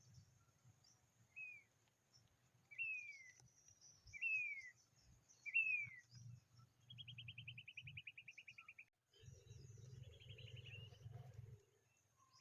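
A bird calling: four short, falling chirps about a second and a half apart, then a fast, even trill lasting about two seconds, and a second shorter trill near the end. A faint steady high hiss, like insects, runs underneath, with a low rumble in the last few seconds.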